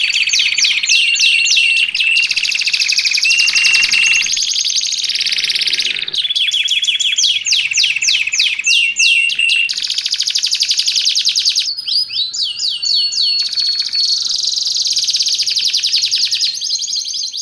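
Domestic canary singing a long, fast song of rapid rolling trills and held whistled notes that change phrase every few seconds, fading out at the very end.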